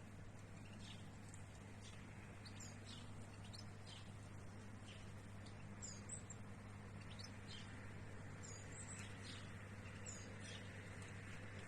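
Small birds chirping in the trees: short, high calls every second or so, over a faint steady low hum.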